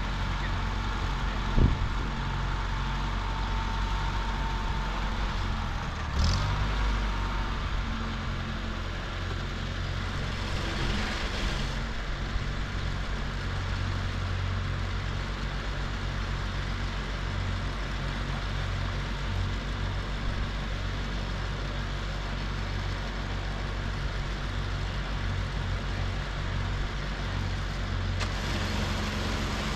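Farmall tractor engine running steadily, with a sharp knock near the start and a heavier clunk about six seconds in. The tractor is pretty loud, which the owner puts down to something wrong in the clutch, throw-out bearing or transmission area.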